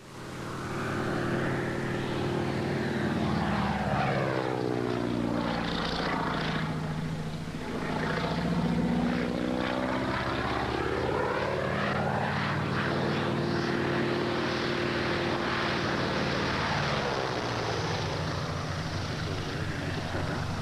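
Propeller airplane engine droning steadily as the plane flies past, its tone sweeping down and back up with each pass, twice.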